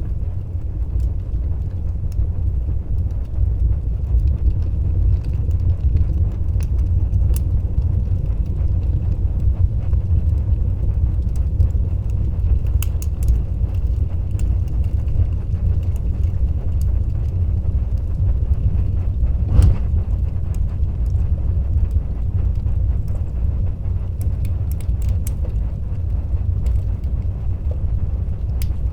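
Wood fire burning in a fireplace: a steady low rumble of the flames with scattered small crackles, and one louder pop about two-thirds of the way through.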